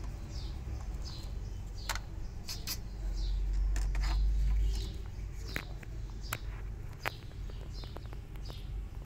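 Small birds chirping in short, high notes that fall quickly in pitch, with a few sharp clicks and a brief low rumble about three to five seconds in.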